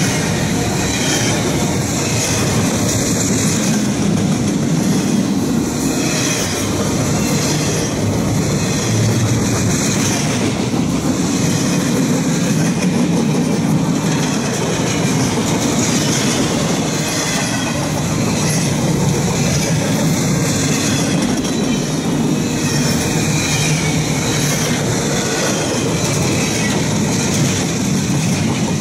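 Freight cars of a long intermodal train (double-stack container well cars and autorack cars) rolling past close by: a steady, loud rumble of steel wheels on rail, with a high clatter that swells and fades every couple of seconds as each car goes by.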